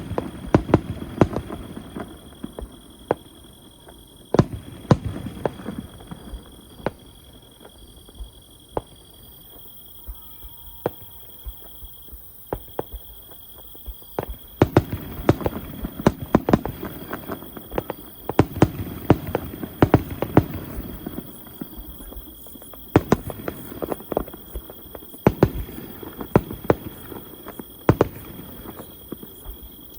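Aerial fireworks bursting: many sharp bangs at irregular intervals over a low rumbling echo, thinning out for a few seconds in the middle and coming thick and fast again in the second half. A steady high insect trill runs underneath.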